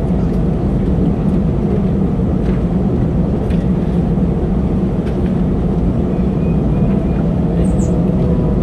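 Steady, loud cabin noise of an Airbus A320-216, its CFM56 engines and the airflow heard from inside the passenger cabin as a low, even hum.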